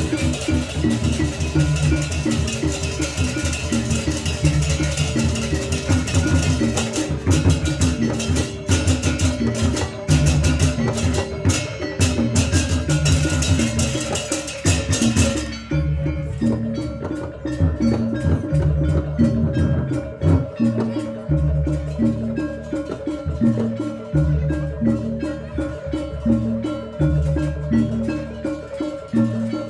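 Gamelan-style accompaniment with drums and tuned mallet percussion playing a steady rhythmic pattern. A bright, high cymbal-like layer stops about halfway through, and the drums and metallophones carry on.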